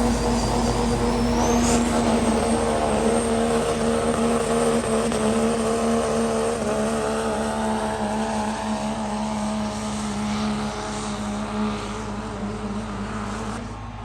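Engine of a sled-pull vehicle running hard at high revs under load, with a high whine that rises over the first two seconds and then holds. The engine tone wavers slightly and the sound slowly grows fainter toward the end.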